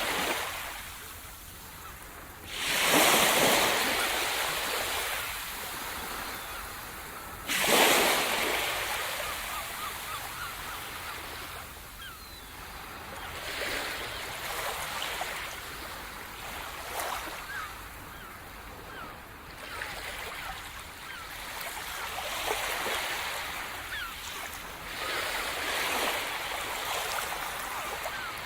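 Sea surf: two waves break heavily about three and eight seconds in, each followed by a long hiss of foam washing back. Smaller waves rise and fall after them.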